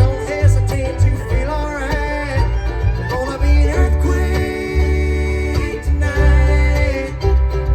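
Bluegrass band playing an instrumental passage: banjo and guitar with a fiddle sliding between notes, over a steady low bass line.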